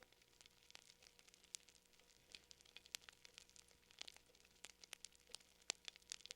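Wood fire crackling softly, with irregular sharp pops and snaps several times a second over a faint steady hum.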